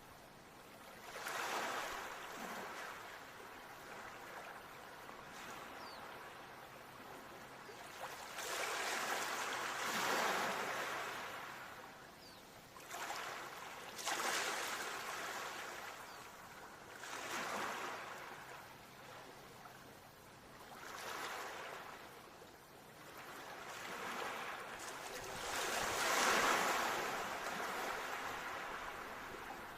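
Ocean waves breaking and washing onto the shore: rushing surges that swell and fade again about every few seconds, the loudest near the end.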